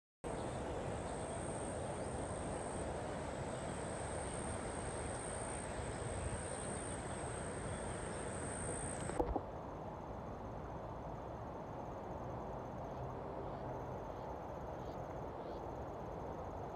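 Outdoor ambience with insects trilling steadily in a high pitch over a low rushing background. About halfway through there is a click and an abrupt change to a different, fainter and more broken insect trill.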